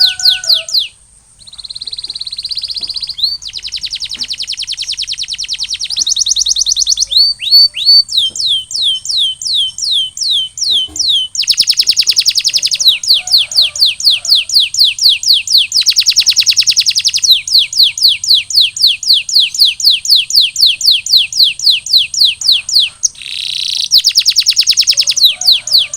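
Domestic canary singing a long song of rapid trills: fast runs of repeated high notes that change speed and pitch from phrase to phrase, with a brief break about a second in.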